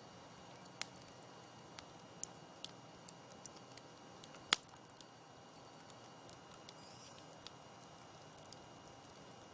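Campfire crackling: scattered sharp pops and snaps from the burning wood over a faint steady hiss, with one loud pop about halfway through.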